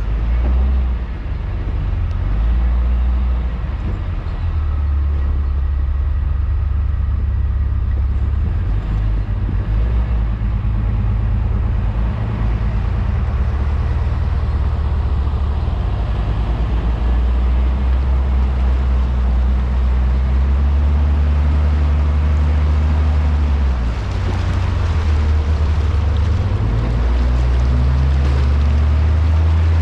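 Off-road 4x4's engine running under way at low speed, its pitch rising and falling several times as the throttle changes, a steady low drone throughout.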